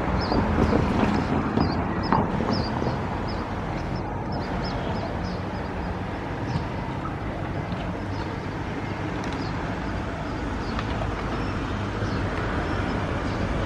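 Steady rumble of vehicle noise at a railway crossing. A short high chirp repeats about twice a second over the first few seconds, then fades.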